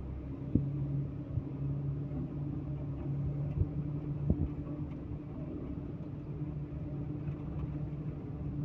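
Heavy vehicle engine running steadily at a constant speed, with a few sharp knocks, one about half a second in and one about four seconds in.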